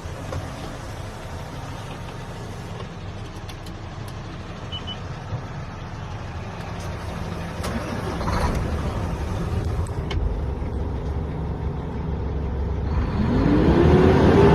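The UD Trucks Quon tractor's turbocharged GH13 diesel engine running at idle, growing louder about halfway through. Near the end it swells again, with a pitch that rises and then falls.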